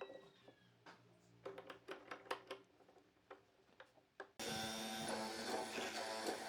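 A series of light, irregular taps and knocks, then music starts suddenly about four seconds in.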